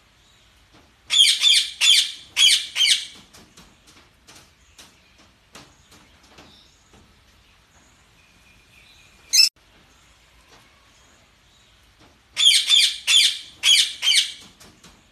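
Budgerigars chirping and squawking: a quick run of loud high chirps about a second in, one sharp call midway, and another loud run near the end, with faint chatter between.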